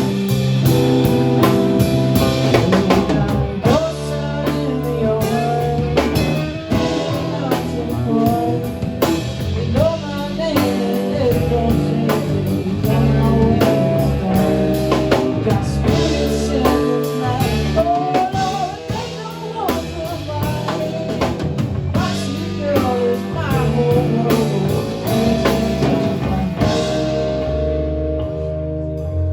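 Live blues-rock band playing: drum kit with cymbals, bass and guitar under a lead line that bends in pitch. The cymbals drop out about two seconds before the end.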